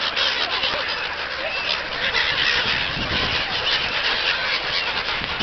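A large flock of birds calling all at once in a feeding frenzy, a dense, continuous din of overlapping calls and flurries.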